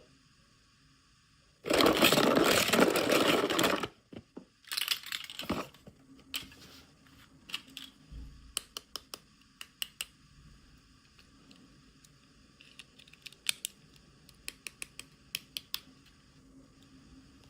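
Miniature toy packaging being handled and opened: about two seconds of loud rustling or tearing, a shorter burst a second later, then a long run of small sharp clicks and taps from plastic pieces.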